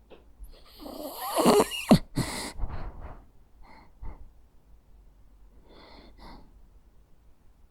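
Jack Russell Terrier breathing in its sleep. About a second in comes one loud, rough breath with a falling pitch, cut by a sharp click, then a second breath. Several soft, short breaths follow.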